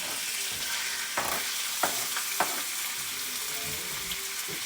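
Chicken pieces sizzling in hot olive oil and butter in a cast iron skillet, a steady hiss of frying as the raw chicken goes in. Three sharp clicks sound against it in the middle.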